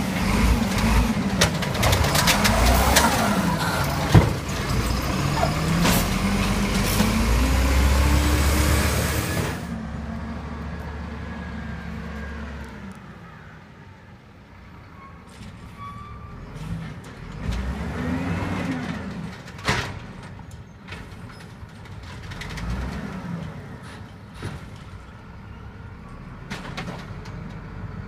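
Garbage truck's diesel engine revving up and down with a sharp knock about four seconds in. A loud air hiss cuts off suddenly near ten seconds in, then the engine runs quieter with its revs rising and falling several times.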